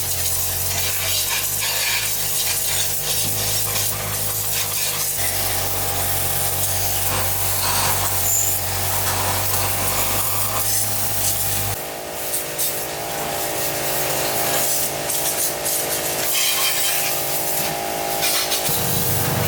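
Workshop tool sounds: repeated clicks, knocks and rubbing from hand work on metal, over a steady machine hum whose low part stops about twelve seconds in.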